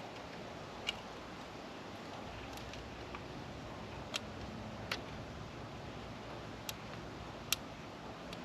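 About half a dozen sharp, irregularly spaced small metal clicks over faint steady background noise: a screwdriver working at the distributor's breaker points while their gap is set.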